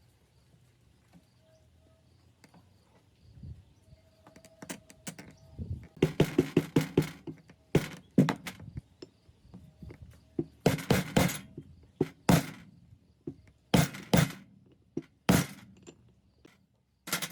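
Irregular knocks and clatters of metal parts being handled and struck, in short bursts of several quick hits separated by pauses of a second or two.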